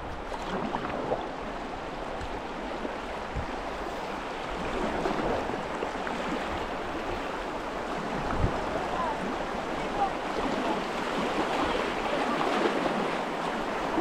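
Rushing water of a river riffle or small rapids: a steady hiss that grows a little louder toward the end. A couple of dull low knocks sound in it.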